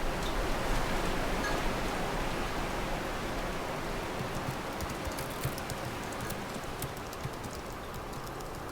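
Office room tone: a steady hiss of air noise, with light, scattered clicks of computer-keyboard typing coming in about halfway through.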